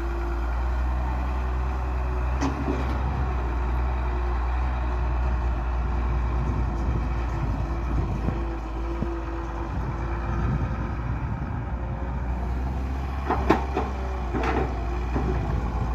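Tractor diesel engine running steadily, with two sharp knocks near the end.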